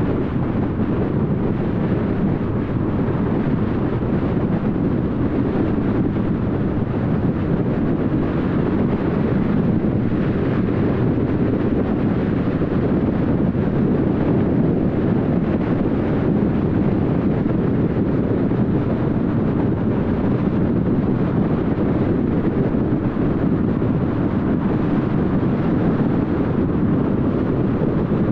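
Steady road and wind noise of a car driving at highway speed, a constant low rumble of tyres and airflow.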